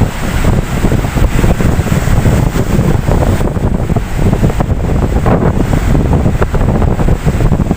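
Ocean surf: a steady wash of waves, with wind buffeting the microphone in a low, fluttering rumble.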